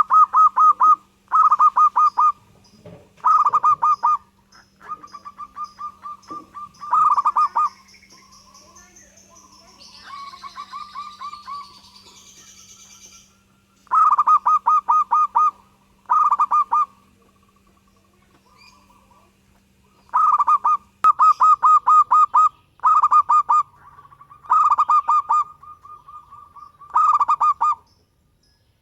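Zebra dove (perkutut) singing: loud, repeated phrases of fast rippling coos, each phrase under a second, delivered in clusters with short pauses between.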